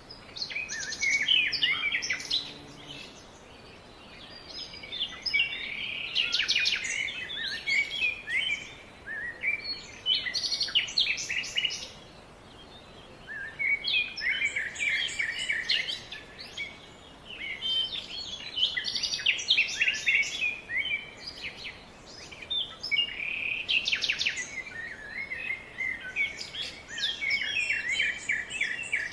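Small birds chirping in bursts of rapid, high chirps, each run lasting a few seconds with short pauses between, over a faint steady background hiss.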